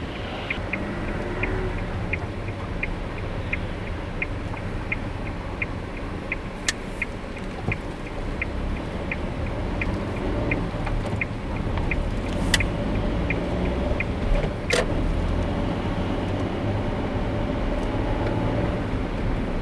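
Car interior road and engine rumble, with the turn-signal indicator ticking evenly about three times a second until it stops about twelve seconds in. A few sharp clicks are also heard.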